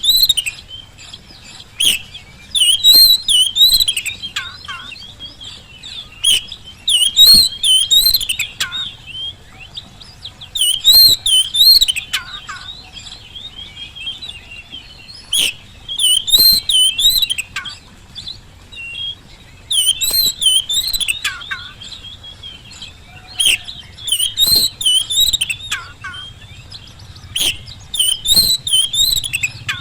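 Oriental magpie-robin (kacer) singing loud, varied whistled and warbled phrases, a new group of phrases every few seconds, with sharp clicks in between.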